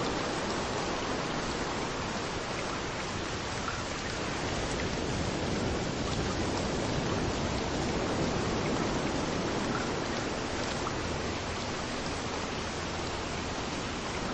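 Rain falling steadily with waves washing in on a beach, an even hiss that swells slightly in the middle.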